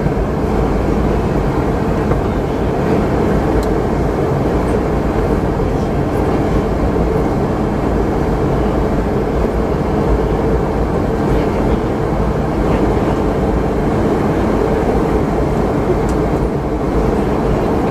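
Steady cabin noise inside a Boeing 717-200 airliner in flight: an even rush of air along the fuselage mixed with the low hum of its tail-mounted Rolls-Royce BR715 turbofan engines, unchanging throughout.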